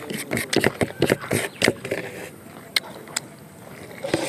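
Close-up chewing and lip-smacking of a person eating by hand: a quick run of wet mouth clicks over the first two seconds, then a few scattered clicks.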